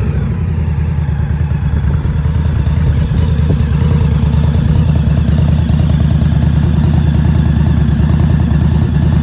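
Indian Scout motorcycle's V-twin engine idling steadily after being revved.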